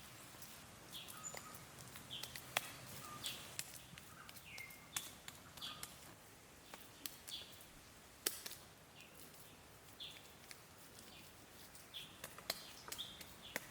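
Small birds chirping, short falling calls repeated irregularly, with sharp clicks or taps scattered among them.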